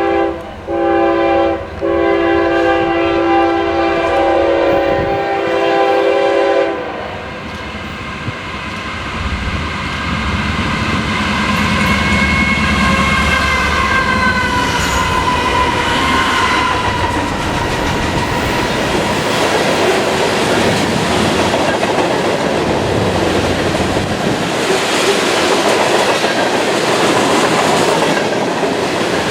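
Locomotive multi-chime air horn sounding three blasts, two short and then one long held for about five seconds. The horn stops and the train rolls past with a steady, loud rumble of wheels on rail.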